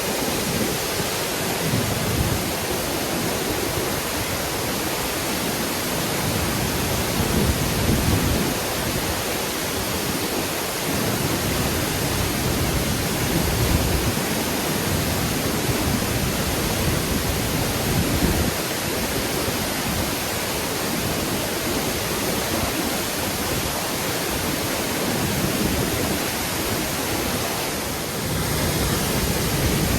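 A tall waterfall heard up close in its spray: a steady, loud rushing of falling water.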